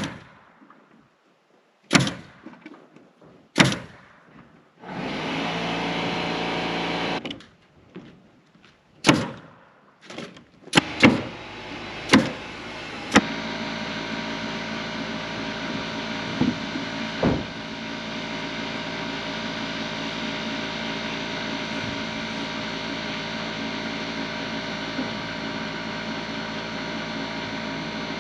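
Framing work: a run of sharp single nailing shots or hammer blows, spaced a second or more apart, with a short burst of steady machine noise between them. About halfway through, a machine starts and runs steadily to the end.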